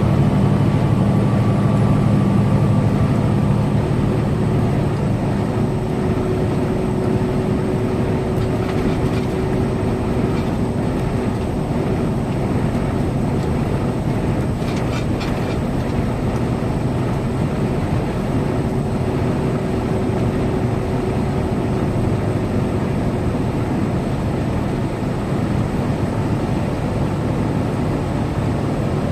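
Semi truck's diesel engine running steadily at highway cruising speed, a constant low drone over steady road noise.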